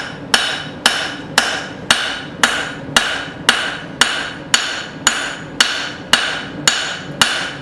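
Hand hammer striking a steel bar on an anvil in a steady rhythm, about two blows a second. Each blow rings briefly as the taper of a tomahawk blank is forged.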